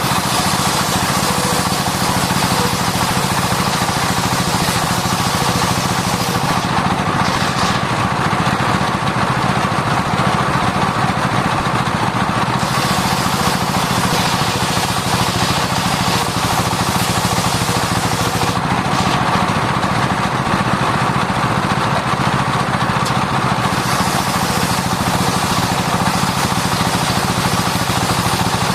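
Circular sawmill running steadily while sawing sengon wood: a constant machine drone under a hiss that turns brighter and harsher for stretches of about six seconds, three times, and duller in between.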